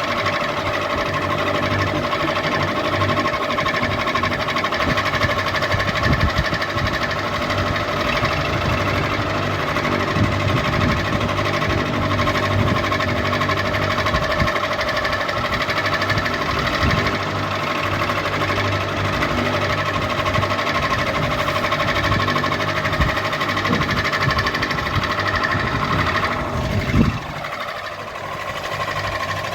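Ceiling fan running, a steady motor hum with a low, uneven rattling rumble. About 27 seconds in, a tone slides down in pitch and the low rumble drops away.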